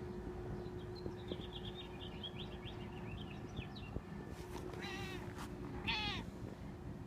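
Domestic house cat meowing twice, about five and six seconds in.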